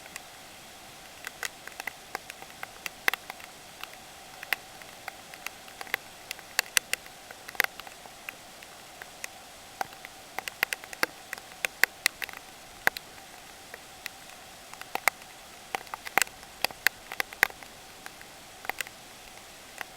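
Raindrops ticking sharply and irregularly against a hard surface close by, over a steady hiss.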